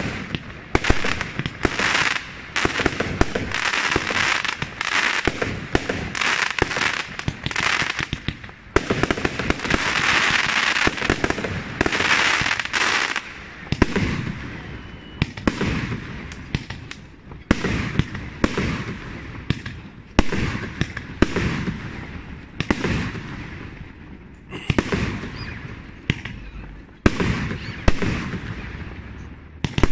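Fireworks going off in quick succession: a steady run of sharp bangs with crackling between them, turning into a long, dense crackle about a third of the way in.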